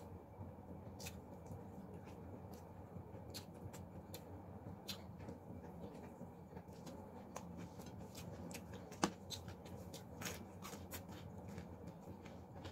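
Close-up eating sounds: a person chewing with many small wet mouth clicks and smacks, one sharper click a little after nine seconds in, over a steady low hum.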